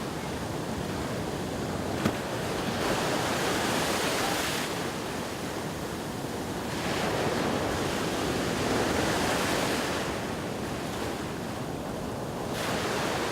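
Ocean surf washing onto a beach, the noise swelling and falling back every few seconds as waves break, with wind on the microphone. A single sharp click about two seconds in.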